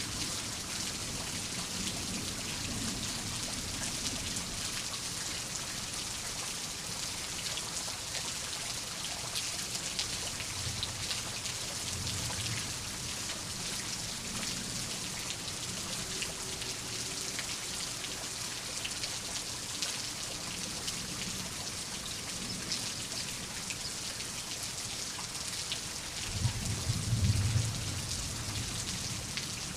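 Steady rain falling, with a fine patter of drops. Low rolls of thunder come and go, the strongest near the end.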